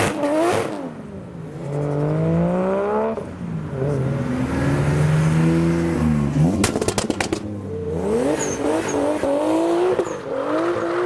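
Engines of modified cars revving and accelerating as they drive off, the pitch climbing through the gears several times. About six and a half seconds in comes a quick run of sharp cracks.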